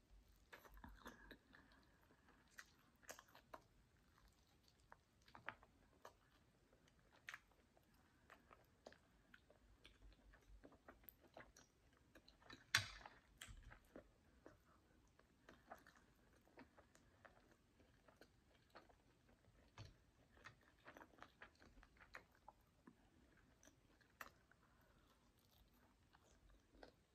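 Quiet chewing and biting of jerk chicken eaten off the bone by hand, with wet mouth sounds and many small clicks. One sharp snap comes about halfway through.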